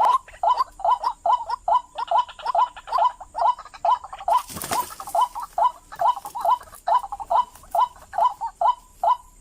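White-breasted waterhen (ruak-ruak) calling: a fast, monotonous run of short, hoarse notes, about three a second without a break. A brief hiss cuts in about halfway through.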